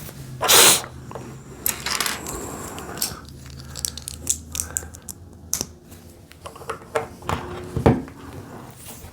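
Small plastic Lego pieces clicking and rattling as they are handled and pressed together, with a short loud hissing burst about half a second in and another near two seconds.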